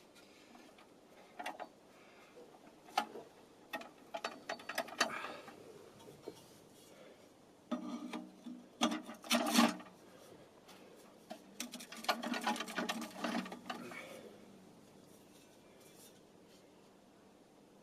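Handling noise from a small tent stove being set up and fitted: irregular bursts of clicks, rattles and rubbing, with quiet gaps between.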